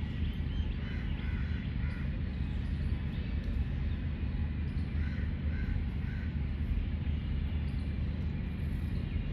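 Short bird calls, a few in quick succession about a second in and again around five to six seconds in, over a steady low hum.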